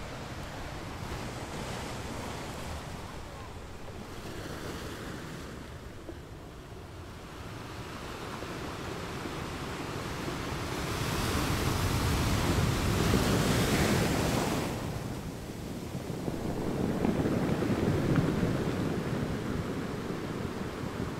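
Atlantic sea waves washing and surging, with wind on the microphone. The sound swells twice in the second half, the first time loud and bright, the second lower and deeper.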